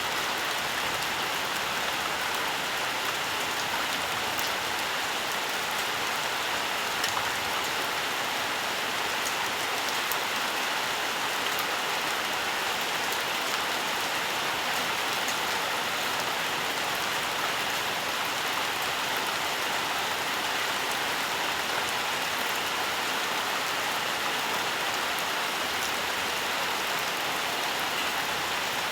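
Steady, even rainfall with scattered drop patter on surfaces.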